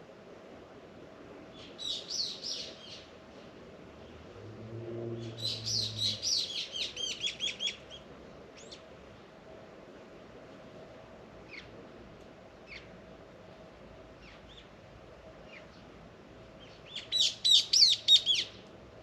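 A songbird singing in three bursts of rapid high chirping notes, about two seconds in, from about five to eight seconds, and near the end, with single chirps in between.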